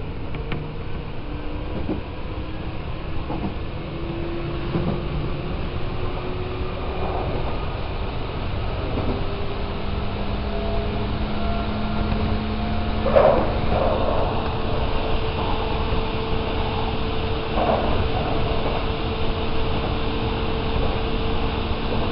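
Hanshin Railway electric train running, heard from inside the front car: a steady low rumble of wheels on rail, with a motor whine that rises slowly in pitch through the first half and then holds as steady tones. A few short clanks break through, the loudest about thirteen seconds in.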